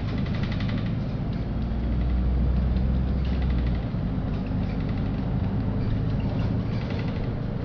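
A LiAZ-5292 city bus's engine running under way, heard from inside the cabin as a steady low drone that grows deeper and louder for a couple of seconds about two seconds in. A fast, light rattle comes and goes over it.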